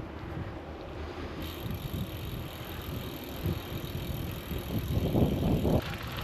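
Bicycle ride on city streets, heard from a GoPro carried on the ride: a steady rumble of tyres on the road mixed with wind on the microphone. It grows louder in uneven gusts near the end.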